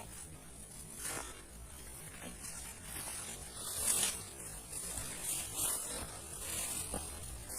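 A high, thin buzzing that swells and fades every second or so, over a faint steady hiss.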